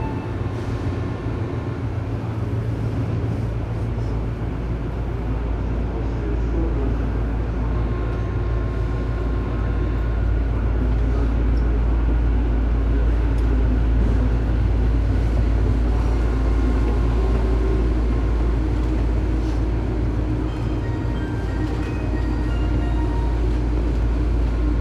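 Tobu 9000 series commuter train running, heard from inside the car directly above its armature chopper: a steady deep rumble of wheels and track with faint high chopper tones over it. This car's chopper is known for an abnormal noise.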